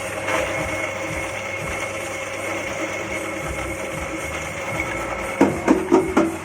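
Soybean splitting and dehulling machine running steadily with a motor hum. Near the end come four sharp knocks in quick succession.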